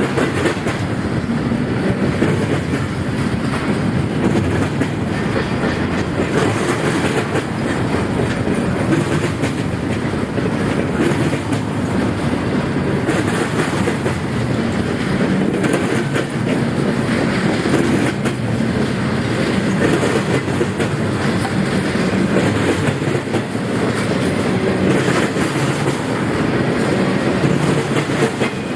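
Freight train cars rolling past steadily, steel wheels clicking over the rail joints with a continuous rumble.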